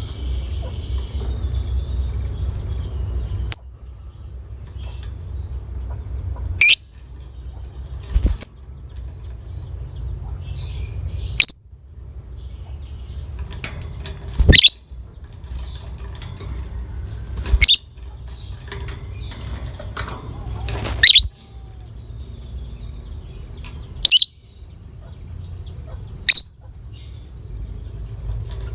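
A lovebird giving short, loud, high calls that sweep downward in pitch, about nine of them spaced two to three seconds apart, over a steady low background hum.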